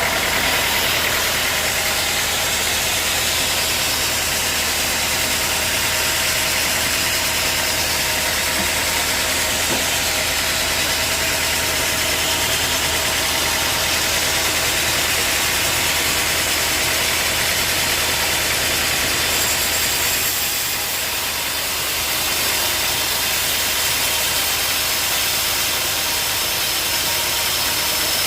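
Sawmill machinery running steadily: a low, even hum under a broad hiss, dipping briefly about twenty seconds in.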